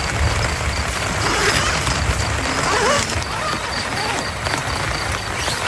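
Rain and wind: a steady noise with an uneven low rumble of gusts.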